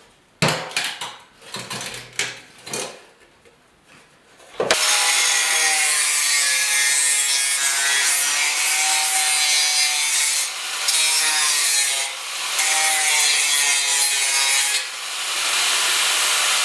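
A few scattered clicks and knocks of metal being handled. About four and a half seconds in, a power tool starts abruptly and grinds steadily through rusty sheet steel on a motorcycle seat pan, its pitch wavering under load, with a few short dips as the cut eases.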